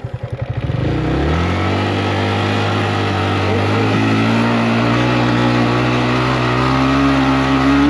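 Yamaha MT-15's single-cylinder engine through an Akrapovič exhaust, with slow pulses at low revs, then pulling away about a second in and held at steady revs that climb gently.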